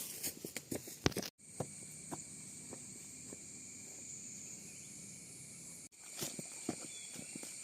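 Insects chirring steadily outdoors, with scattered light clicks and steps, cut off abruptly twice.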